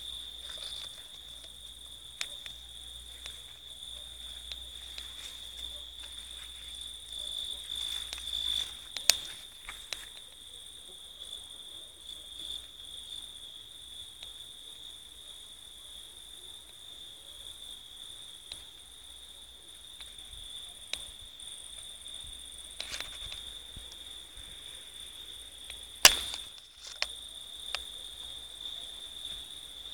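A cricket singing a steady, unbroken high-pitched trill, with a few sharp clicks over it, the loudest about 26 seconds in.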